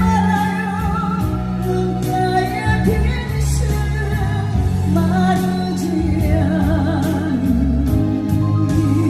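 A woman singing a slow Korean ballad with wide vibrato, over a band accompaniment with sustained bass notes and a steady light beat.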